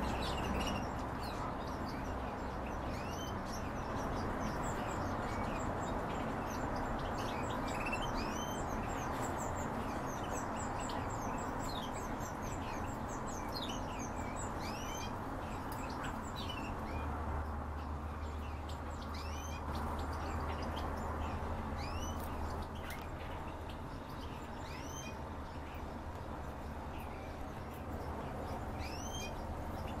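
Small cage birds chirping: many short, high, hooked calls repeated at irregular intervals over a steady background rush, with a low hum joining about halfway through.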